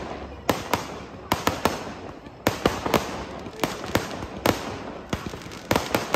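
Aerial fireworks bursting in a rapid barrage: a string of sharp bangs, roughly one or two a second, with crackling and hiss between the bursts.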